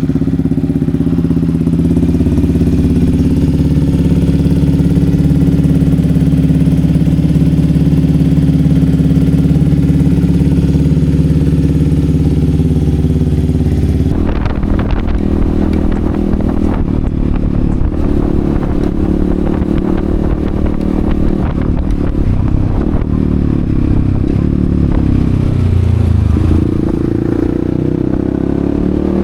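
Yamaha XSR155's 155 cc single-cylinder engine idling steadily just after starting. About halfway through the sound changes to a rougher running note, with the revs rising and falling.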